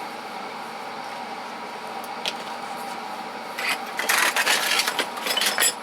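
Small metal tool bits clinking and rattling as they are handled and sorted, in a burst of clatter over the second half, over a steady background hum.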